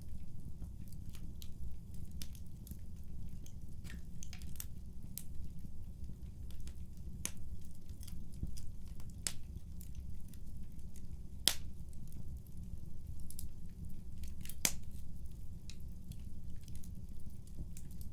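Wood fire burning in a fireplace: a steady low rumble with scattered sharp crackles and pops, and a few louder snaps in the second half.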